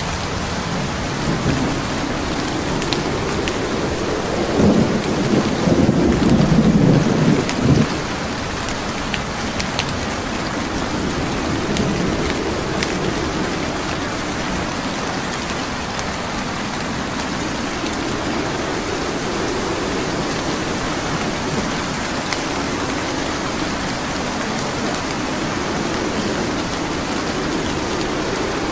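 Steady rain, with a low roll of thunder about five seconds in that rumbles for a few seconds. Scattered sharp crackles from burning logs sound through it.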